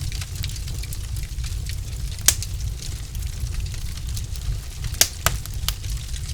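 Wood logs burning in a fireplace, crackling with frequent small snaps over a steady low rumble. A few louder pops stand out: one about two seconds in and two close together near five seconds.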